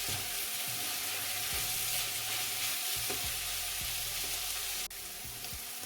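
Grated carrot frying with onion and tomato in oil in a pot, sizzling steadily while it is stirred, with a few light knocks of the spoon.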